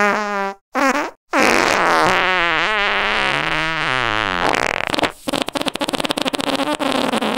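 Inflated rubber balloon squeezed and rubbed against a cat's belly, squealing in long pitch-wavering squeaks, then a rapid crackle of rubber squeaks over the last couple of seconds.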